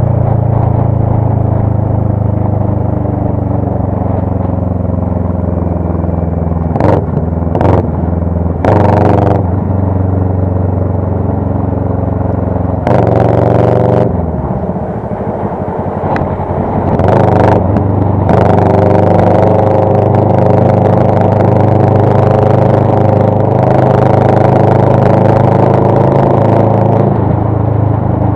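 Motorcycle engine running under way, its note rising and falling with the throttle, with a few short bursts of rushing noise.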